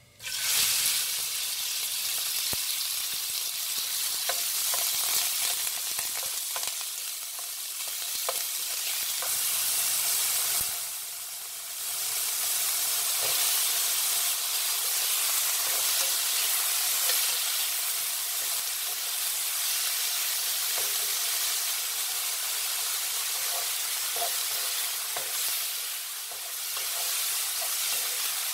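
Diced meat dropped into hot oil in a nonstick wok, sizzling at once, then frying with a steady hiss as it and the vegetables are stir-fried. A spatula taps and scrapes lightly against the pan now and then.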